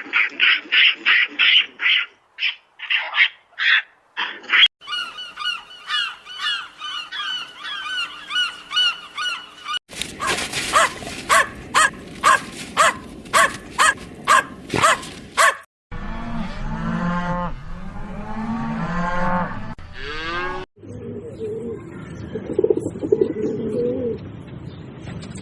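Animal calls from about five short recordings cut abruptly one after another, with honking bird calls among them. Each recording holds rapid repeated calls; in the middle stretch the calls are sharp and loud at about two a second, and the later ones are lower and rise and fall in pitch.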